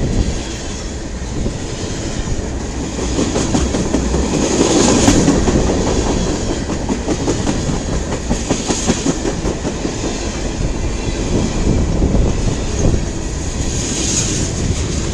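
Freight cars of a long mixed freight train rolling past close by: a steady rumble with wheels clicking over rail joints.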